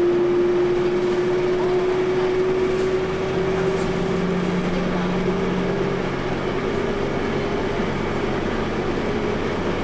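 Steady drone of a vehicle's engine and running noise heard from inside, with one engine tone rising slowly in pitch over the first several seconds.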